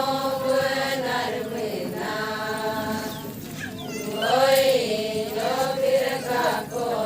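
Adi Ponung song chanted in long held notes that bend slowly up and down, swelling louder about two-thirds of the way through.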